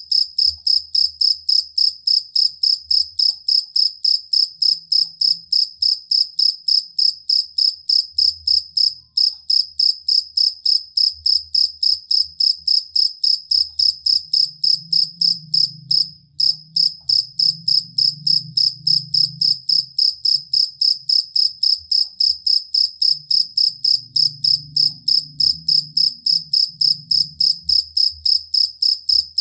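Two-spotted field cricket (jangkrik kalung) chirping without pause in an even, steady rhythm of clear high-pitched chirps, about three a second, with a brief break about 16 seconds in.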